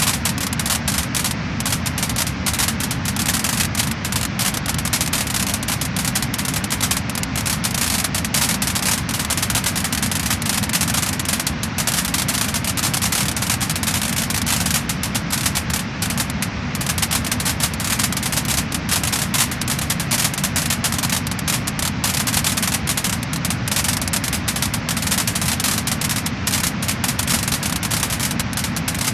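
Wood-burning fire crackling and popping in dense, irregular clicks over a steady rushing noise.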